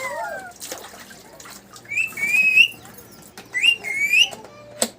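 Pet parrot giving two loud, rising whistled calls, each under a second long and about a second and a half apart.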